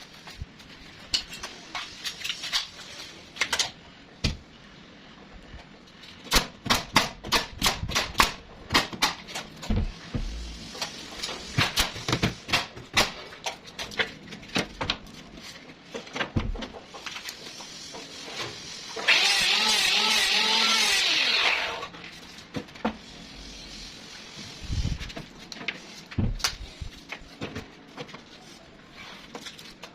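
A long run of sharp knocks and taps on wood-working material, busiest in the first half. Past the middle, a small power tool runs at a steady pitch for about two and a half seconds and then stops.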